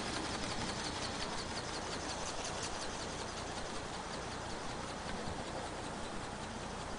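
Remote-controlled flapping-wing bird (ornithopter) in flight: its small motor and gearbox whirring, with a quick, even ticking from the wing strokes, faint and steady after being louder just before.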